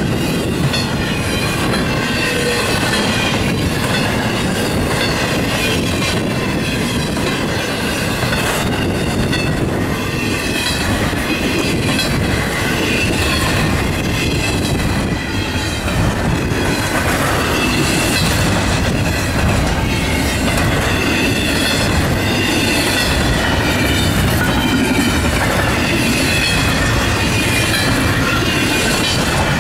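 Norfolk Southern double-stack intermodal freight train rolling past close by at speed, a steady unbroken din of wheels on rail, with a high, wavering squeal from the wheels above it.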